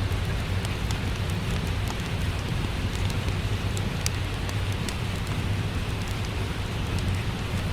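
Steady rain with a low rumble, layered with a wood fire crackling: scattered sharp pops and clicks over the even hiss.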